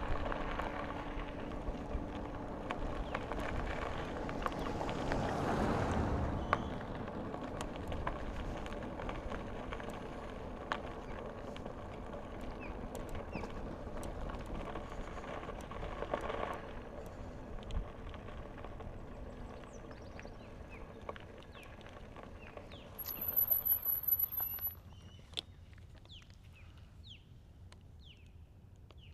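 Bicycle riding noise: tyres rolling on the trail and air rushing past the microphone, with scattered clicks, easing off as the bike slows. A brief high-pitched trill sounds about 23 seconds in.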